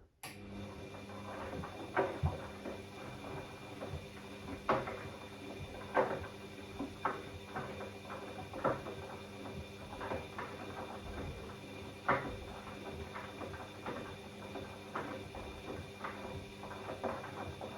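Bosch Classixx 6 washing machine's drum motor starting up abruptly and turning the drum with a steady hum, while the laundry tumbles with irregular thuds and clunks about every second or two, during the early sensing stage of a 90 °C cottons wash.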